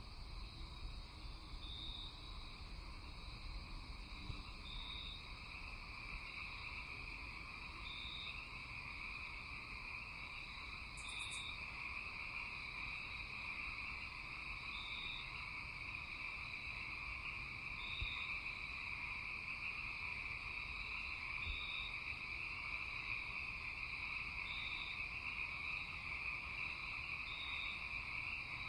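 Night-time chorus of insects and frogs: a steady high-pitched trilling drone, with a short high chirp repeating about every three seconds.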